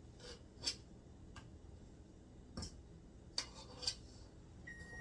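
Faint, scattered light clicks and taps of kitchen work, about five in all. Right at the end an oven's electronic beep starts, one steady high tone, signalling that it has finished preheating.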